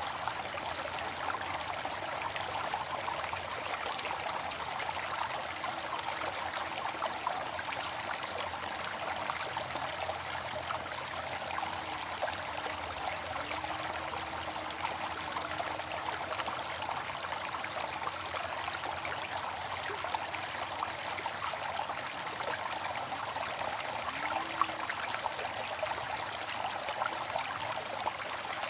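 Water fountain splashing and trickling steadily, an even rush of falling water without pauses.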